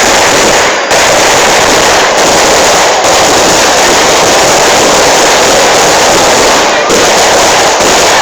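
Firecrackers going off in rapid, unbroken crackling, very loud and dense, with a few split-second gaps.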